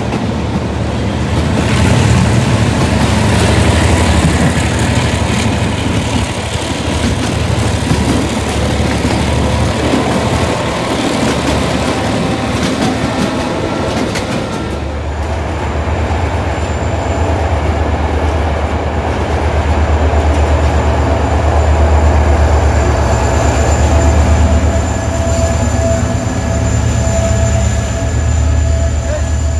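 Running noise of a moving passenger train heard from an open coach door: wheels and coach body rattling and clattering. About halfway through, a cut to a diesel locomotive standing at a platform, its engine running with a steady low drone and a thin high whine.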